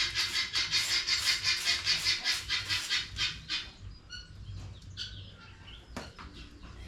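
A regular swishing, about three strokes a second, that stops about three and a half seconds in, then chickens chirping, with a sharp knock near the end.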